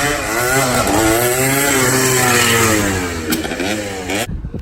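A small motorcycle-type engine revved repeatedly, its pitch rising and falling in waves, stopping abruptly about four seconds in.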